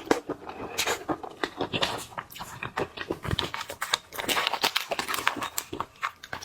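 Close-miked eating of shellfish: a dense run of crackles and clicks as shells are broken and peeled, mixed with chewing.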